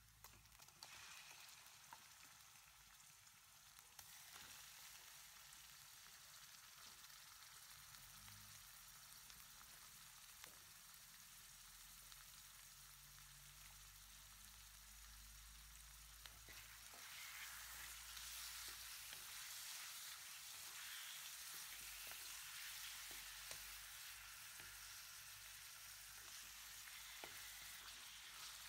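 Pork pieces frying in oil in a wok with onion and garlic: a faint, steady sizzle that grows louder about two-thirds of the way through, with scattered light taps from stirring.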